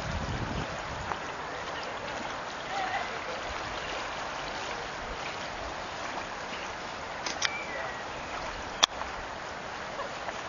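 Water rushing steadily through a drain swollen by heavy rain, a constant hiss of flowing water. A single sharp click about a second and a half before the end.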